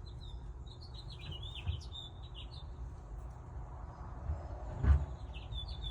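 High, thin chirping from young birds at the nest, a quick run of short calls over the first couple of seconds and again near the end. A single thump about five seconds in, over a low rumble of handling noise.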